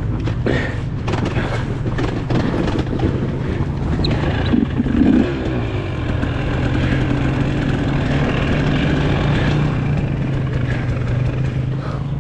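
Dirt bike engine running at a steady pitch as the bike is ridden, with a brief rise about five seconds in and some clatter over it.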